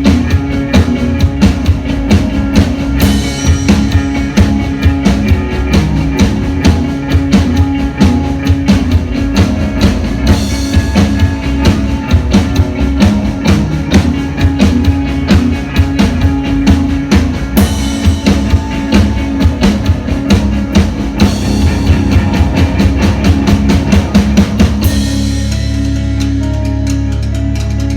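A rock band playing live, with a drum kit keeping a fast, steady beat over sustained bass and chords. About three seconds before the end the drums stop, leaving only the held notes ringing.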